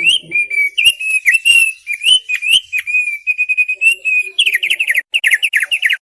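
Thick-billed heleia (opior paruh tebal) singing a fast, unbroken chatter of short whistled notes. Near the end the song turns into a quick run of falling notes, then cuts off suddenly.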